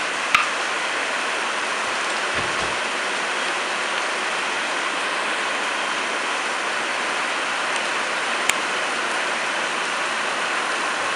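Steady rain pouring down. Two sharp clicks cut through it, one just after the start and one about eight seconds in.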